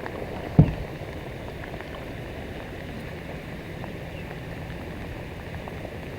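A single low thump about half a second in, then a steady hiss with a faint low hum, the sound of a fishing boat sitting on the water in the rain.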